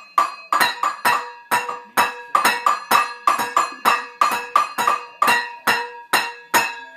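Repeated clanking strikes on a hard ringing object such as a dish or pot, about three a second and fairly even, each clank leaving a bright ringing tone.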